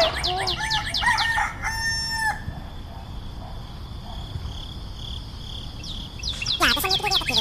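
Outdoor birdsong: small birds chirping in fast repeated trills, with a rooster crowing once, briefly, about two seconds in. The middle stretch is quieter before the chirping picks up again near the end.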